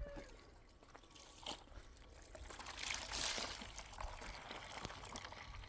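Liquid pouring, the hiss swelling about halfway through and then easing, with a few faint clicks.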